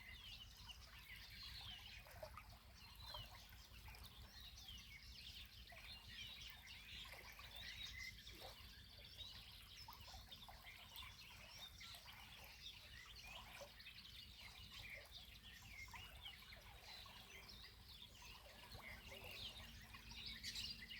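Faint chorus of many songbirds, dense quick chirps and trills overlapping throughout, over a steady low background rumble.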